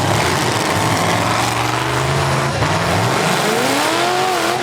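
V8 engines of full-size demolition derby cars running loudly, one revving up with a rising pitch about three seconds in.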